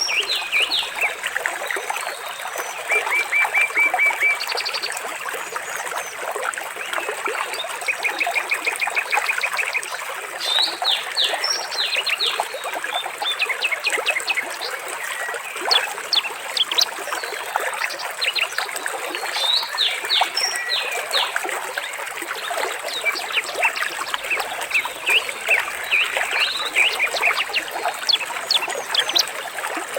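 Water trickling steadily under a chorus of songbirds chirping, with a rapid trilled phrase about three seconds in and again about eight seconds in.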